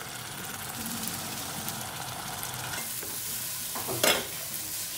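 Food sizzling in a hot pan as it is stir-fried, first stirred with a wooden spoon and then tossed in a frying pan, with a short loud clatter of the pan about four seconds in.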